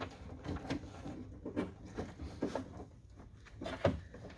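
Faint, irregular light clicks and scrapes of a tool and fingers working a small 10mm nut loose inside a car door.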